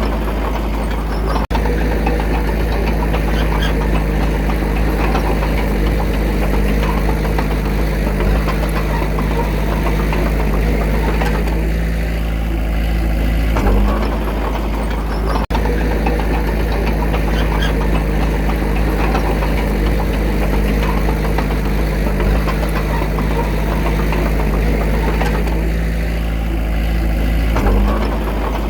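Diesel engine of heavy earthmoving machinery running steadily at a low, even speed, with brief dips in level a couple of times.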